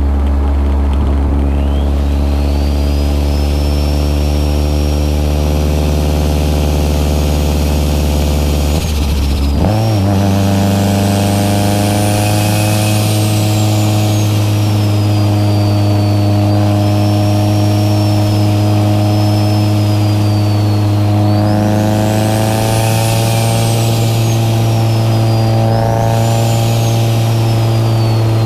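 Mitsubishi Lancer Evolution VII's turbocharged 4G63 four-cylinder heard from inside the cabin while driving at an even pace, with a high turbo whistle that rises and falls with the throttle. About nine and a half seconds in, the engine note steps up sharply in pitch and stays higher.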